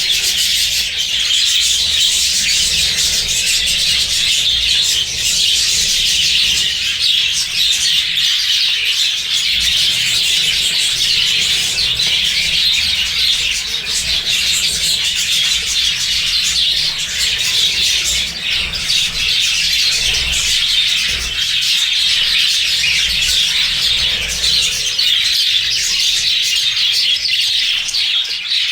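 A flock of budgerigars chattering and chirping together, a dense, continuous twittering with no pauses.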